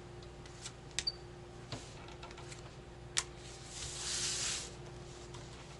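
Playing cards being put down on a table: a few sharp light clicks and taps, then a brief papery swish of a card sliding about four seconds in.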